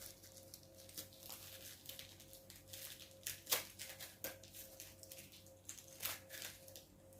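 Hands handling slime-making materials: irregular small clicks, taps and crinkles, with a sharper click about three and a half seconds in, over a faint steady hum.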